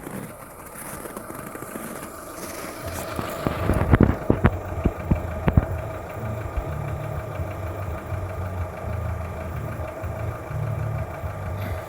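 Škoda Fabia 1.4 engine idling with an extraneous knocking noise, heard most from underneath, which the dealer puts down to piston slap and calls normal. A few sharp knocks about four to five seconds in, then a louder low pulsing rumble.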